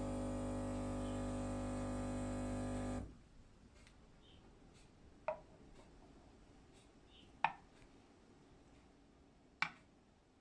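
Espresso machine's pump humming steadily, then cutting off abruptly about three seconds in. Three sharp clinks follow, about two seconds apart.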